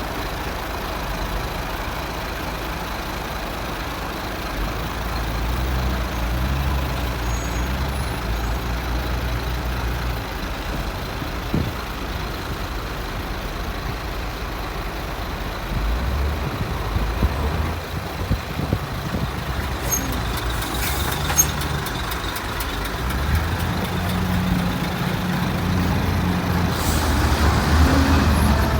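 Heavy diesel engines of a wheel loader and a dump truck at work, the loader revving up and down several times as it loads sand. A run of sharp clicks comes about two-thirds in, and a short hiss near the end.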